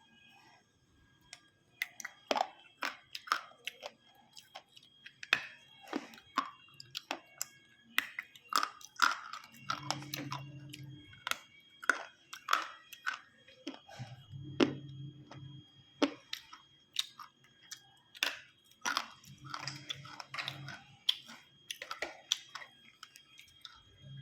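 Close-up chewing and crunching of food: a quick, irregular run of crisp bites and mouth clicks, with a few brief low hums in between.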